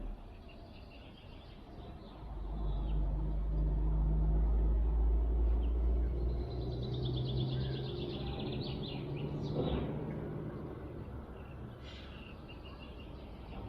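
Small birds singing and chirping, with a fast falling trill about halfway through, over a low rumble of wind on the microphone and a low steady drone.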